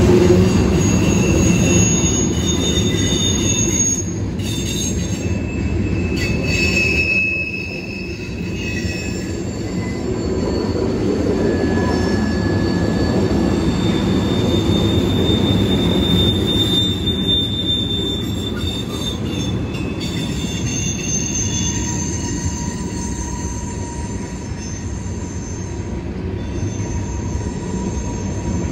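Freight train's tank cars and covered hoppers rolling past, steel wheels rumbling steadily on the rails, with high-pitched wheel squeal that comes and goes.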